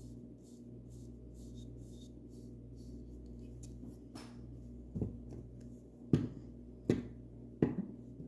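Soft paintbrush strokes brushing over a wooden bird house, fading out in the first half, followed by four sharp knocks about a second apart near the end. A steady low hum runs underneath.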